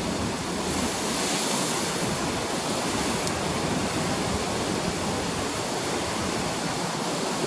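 Ocean surf after a typhoon: waves breaking and washing in a steady rush, with a louder hiss of a wave breaking about a second in.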